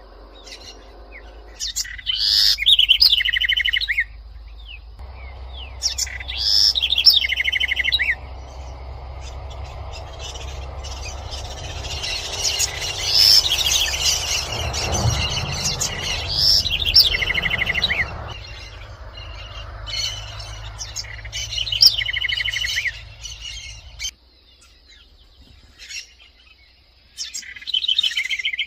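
House wren (corruíra) singing: about six separate songs several seconds apart, each a quick jumble of high notes running into a fast trill.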